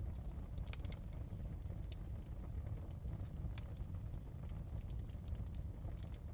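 Wood fire crackling: scattered sharp pops and snaps, a few every second, over a steady low rumble.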